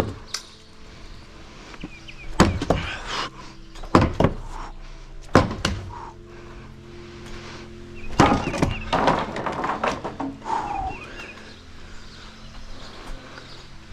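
Demolition of a wooden deck: a few heavy, irregular thuds and knocks as boards are struck and pulled apart, with a longer rattling clatter of wood about eight seconds in.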